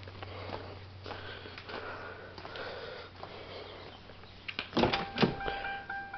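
Soft handling noises, then a few sharp knocks about five seconds in as a car door is worked, followed by the 2000 Ford Crown Victoria's electronic warning chime sounding a steady tone.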